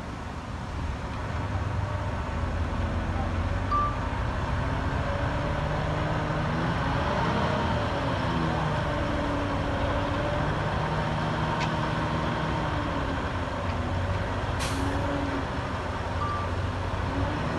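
Heavy diesel construction-machine engines running under load, their pitch rising and falling as they work. Short beeps sound a couple of times, and a brief air hiss comes near the end.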